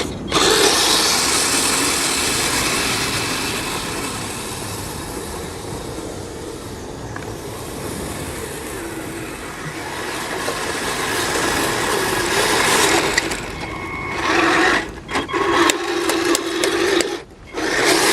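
The two electric drive motors and crawler tracks of a Kyosho Blizzard SR 1:12 RC snowcat running, a steady whirring drive noise that fades and swells again. Near the end it stops and starts several times in short bursts.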